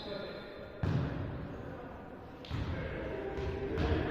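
A volleyball thudding several times as it is struck or bounced, the first thump about a second in.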